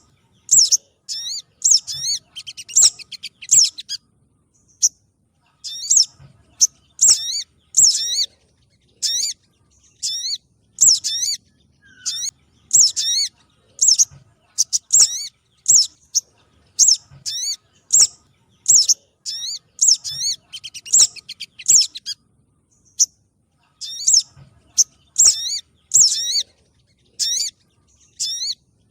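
Recorded spiderhunter calls played as a trapping lure: short, sharp, high chirps in quick runs, repeated over and over with brief pauses.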